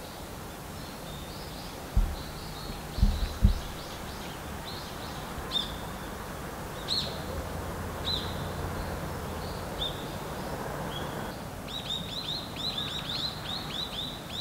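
Small birds chirping, short high notes that fall in pitch, repeated throughout and quickening into a rapid run of chirps near the end. Three dull low thumps come about two, three and three and a half seconds in, the loudest sounds.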